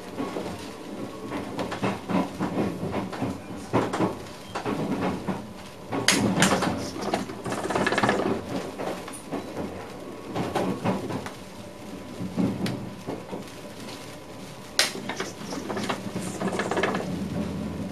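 Clunks and rattles inside the driving cab of a VIRM double-deck electric train, with sharp knocks about six seconds in and again near the end.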